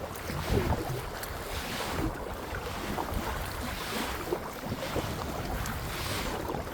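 Water splashing around a kayak in swells about every two seconds, like paddle strokes, with wind rumbling on the microphone.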